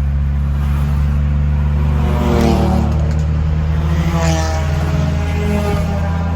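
Modified cars with loud exhausts: a steady low engine drone, with engines revving up and back down about two seconds in and again about four seconds in.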